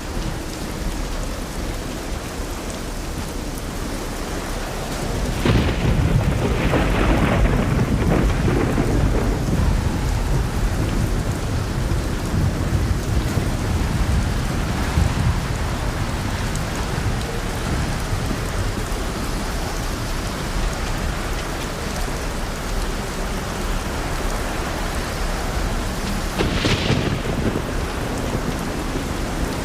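Thunder rolling over a steady hiss of wind and light rain. A long low rumble swells about five seconds in and dies away slowly, and a shorter, sharper clap comes near the end.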